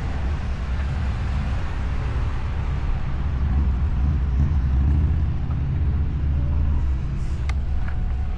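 Steady rumbling wind and road noise from an e-bike riding along, picked up by the ride camera's microphone, with a single click near the end.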